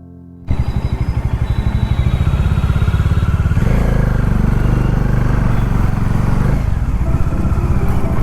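Motorcycle engine running while riding, a fast even pulse. It briefly drops away for the first half second, then picks up, with a fuller, stronger stretch in the middle.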